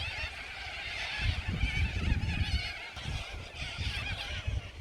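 A noisy mass of birds calling together at dawn, many wavering calls overlapping without a break.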